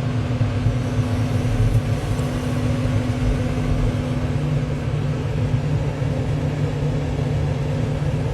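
Vehicle engine running steadily, a low even hum with no change in speed.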